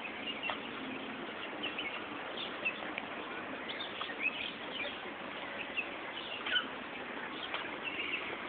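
Small birds chirping: many short, high chirps and twitters, over a steady background hiss.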